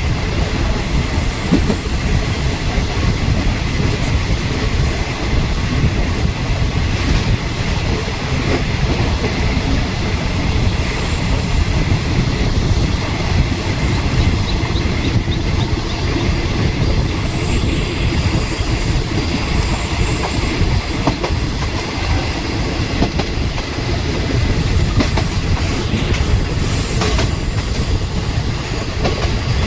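Passenger train running at speed, heard from on board: a steady low rumble of wheels on rail, with scattered clicks and a few faint high squeaks.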